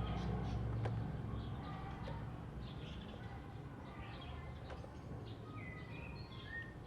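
Oriental magpie-robin (kacer) giving scattered short chirps, with a few clear whistled notes near the end. A low steady hum runs underneath.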